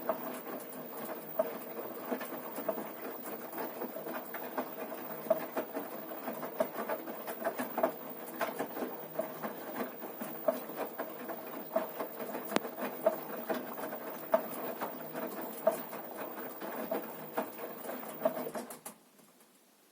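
Washing machine running with a steady motor hum and a monotonous knocking from the drum, a sharper knock about every second and a quarter with lighter taps between. The owner cannot find the cause, having ruled out levelling, shock absorbers, springs and loose counterweights. It cuts off suddenly near the end.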